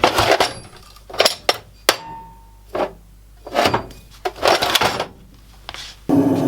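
Hammer blows on steel, about ten irregular strikes, each ringing briefly. About six seconds in, a steady roar starts suddenly.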